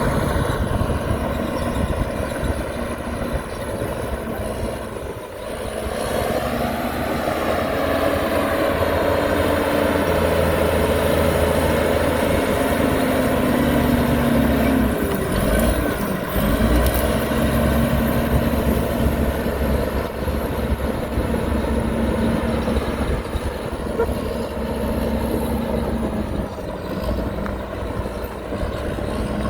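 Heavy construction machinery running: the steady diesel engine note of a dump truck or bulldozer at work, with brief dips about five and sixteen seconds in.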